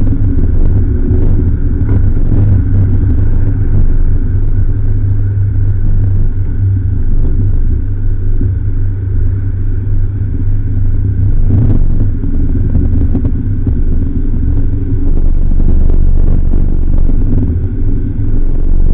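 Jowett Jupiter's flat-four engine running at low road speed as the car rolls up to stopped traffic, a steady low drone mixed with road noise. There is a single light knock about two-thirds of the way through.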